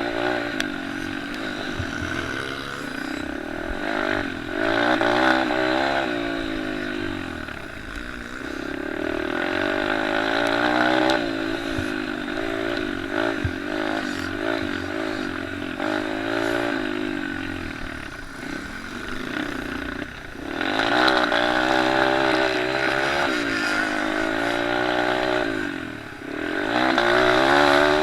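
Small single-cylinder pit bike and mini motocross engines racing on a dirt track, revving up and dropping off again and again as they accelerate, shift and brake. Louder passes come about two-thirds of the way in and again near the end.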